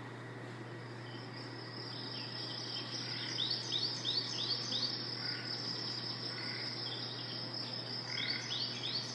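Steady high-pitched drone of insects, crickets or cicadas, with a bird calling a run of short repeated notes, about three a second, once a few seconds in and again near the end.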